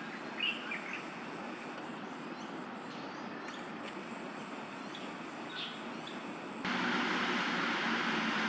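Steady background hum of distant city traffic, with a few short high bird chirps near the start and once more around the middle. About two-thirds of the way in, the background noise abruptly becomes louder.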